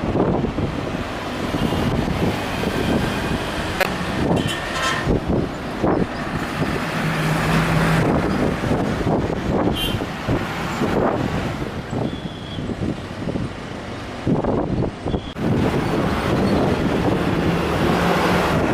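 Steady, loud engine rumble with uneven swells, without a clear rise or fall.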